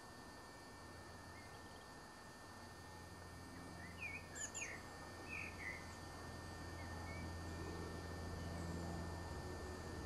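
Small bird chirping: a handful of short, quick calls bunched together about four to six seconds in, with a few fainter chirps before and after, over a steady low hum.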